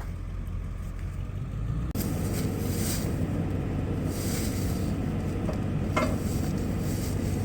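A vehicle engine idling, then pulling harder about two seconds in as it takes up the strain of a block and tackle hooked to a stuck truck.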